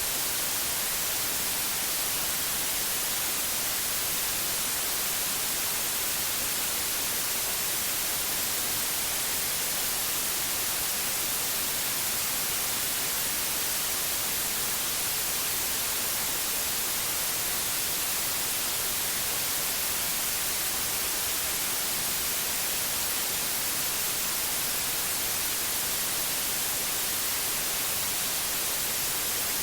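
Steady white noise, an even hiss with more energy in the highs, unchanging throughout.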